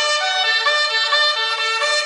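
Music played on an LG CM9520 mini hi-fi system: a reedy, clarinet-like melody of held notes stepping from pitch to pitch, without drums.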